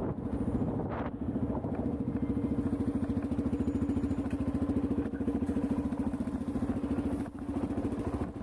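Motorcycle engine running steadily with a fast, even pulsing beat.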